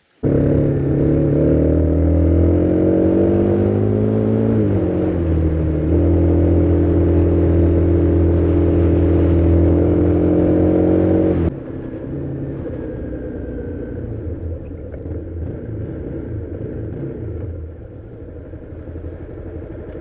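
Motorcycle engine running at steady speed, its pitch dropping once about four to five seconds in and then holding. About halfway through it cuts abruptly to a quieter, rougher engine sound.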